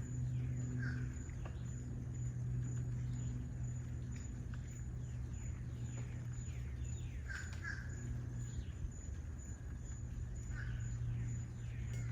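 Wild birds chirping, many short falling calls overlapping, with a few louder chirps about a second in, around two-thirds through and near the end, over a steady low hum.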